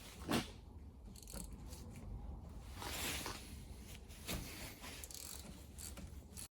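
Hand tools and metal parts being handled during work on a car's front brakes: irregular knocks, clicks and scraping, with a sharp knock just after the start.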